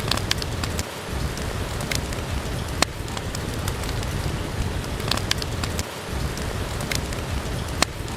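Steady rain with a wood fire crackling: scattered small crackles and two sharp pops, one about three seconds in and one near the end.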